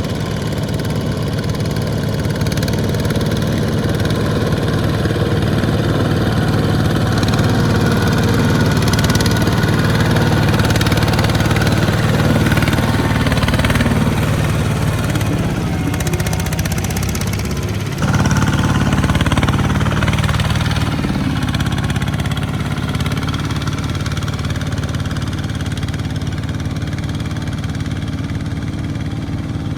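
Small farm tractor engine running steadily, with a dense low-pitched engine note. The sound changes abruptly and gets louder about two-thirds of the way through.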